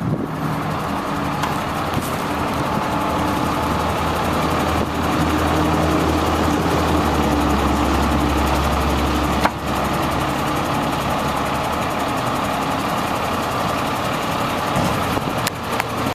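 Diesel engine of a 1997 International 2674 truck running steadily. A deeper, louder note builds in the middle and drops away with a sharp click about nine and a half seconds in.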